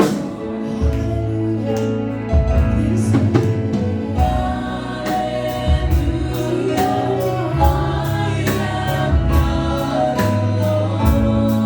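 Gospel music: a group of voices singing together over a band, with a steady beat and a strong bass under held chords.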